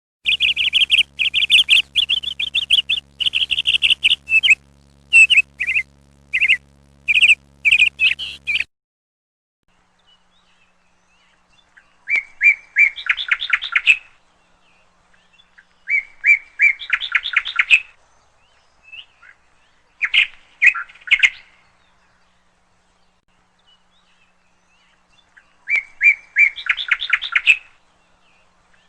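Birds chirping: dense, continuous chirping for about the first eight seconds, then four short bursts of rapid repeated chirps a few seconds apart, separated by quiet.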